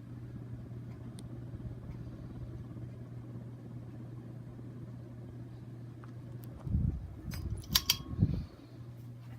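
Ceiling fan running with a steady low electrical hum and rumble. Near the end come a few louder low thumps and sharp clicks.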